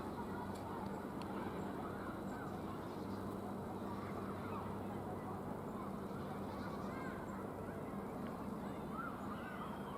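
Steady low background hum with a few faint bird calls.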